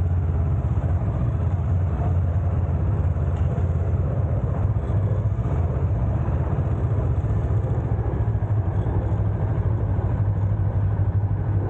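Honda CL500's 471 cc parallel-twin engine running at low speed, heard from on the bike as a steady low rumble.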